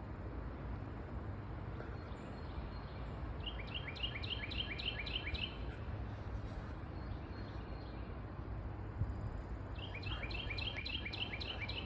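An unidentified songbird sings a quick run of about eight repeated chirping notes, twice, some six seconds apart, over a steady low background rumble.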